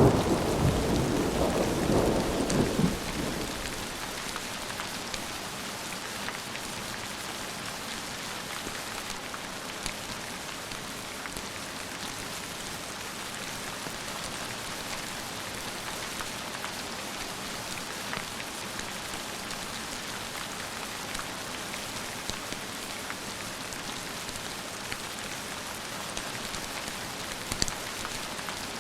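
A thunder rumble dies away over the first three seconds, leaving steady rain falling, with scattered small drop ticks and a brief sharper click near the end.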